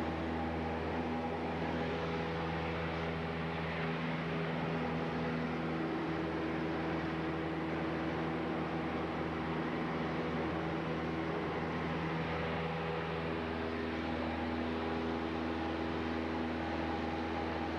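Cessna 172's piston engine and propeller droning steadily in flight, a constant pitched hum over a rush of noise.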